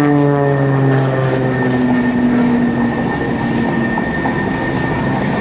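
Extra 300L aerobatic plane's propeller and six-cylinder engine droning, its pitch falling over the first two seconds or so before settling into a steady broad drone.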